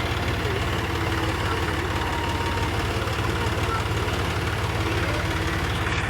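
Eicher 551 tractor's diesel engine running steadily at an even speed, its low firing pulses regular throughout.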